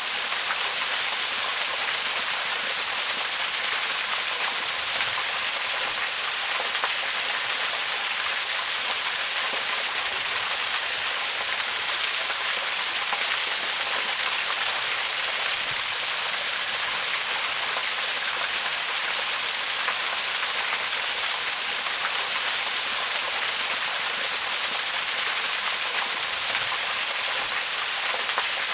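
Waterfall: water falling and splashing in a steady, unchanging rush, mostly a bright hiss with little deep rumble.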